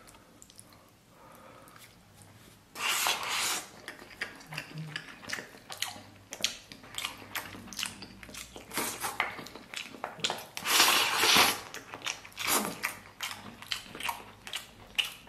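Close-miked chewing and eating noises of a man eating rice pilaf with lamb: wet mouth clicks and smacks, with louder stretches about three seconds in and again about two-thirds of the way through.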